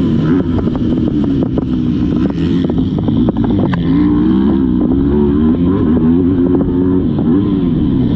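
Motocross dirt bike engine revving up and down as it is ridden hard around the track, with a few sharp clacks.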